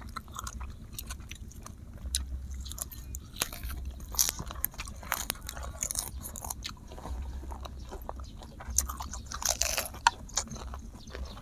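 Close-miked chewing and biting while eating grilled duck by hand: a scatter of irregular, sharp wet clicks and smacks, busiest near the end.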